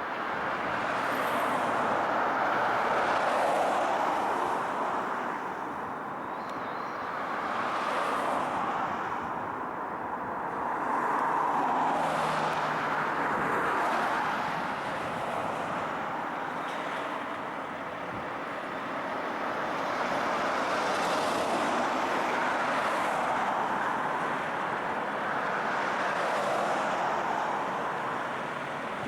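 Road traffic passing by: vehicles go past one after another, the tyre and engine noise swelling and fading every few seconds.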